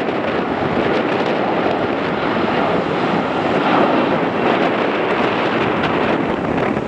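Steady noise of a jet airliner's engines, swelling slightly a few seconds in, mixed with wind buffeting the microphone.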